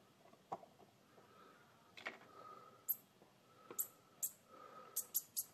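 Faint, scattered clicks and taps of a screwdriver and fingers on a plastic outlet wall plate, about eight in all, with several in quick succession near the end.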